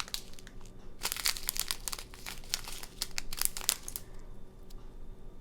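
Small plastic bags of diamond-painting drills crinkling as they are handled, in bursts of rustling that die down about four seconds in.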